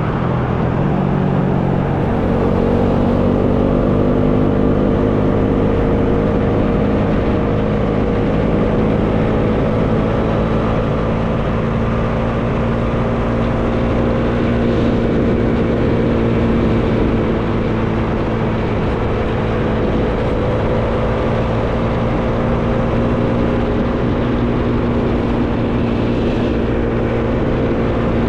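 Bajaj Dominar 400's single-cylinder engine running under way, with wind noise rushing over the microphone. The engine note changes about two seconds in, then rises slowly as the bike gains speed.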